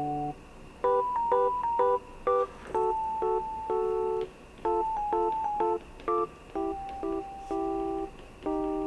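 Background music: a light, gentle melody of short electric-piano-like keyboard notes, several a second.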